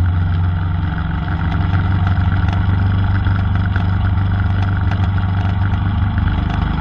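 Royal Enfield Himalayan's 411 cc single-cylinder engine running steadily, with no change in pitch.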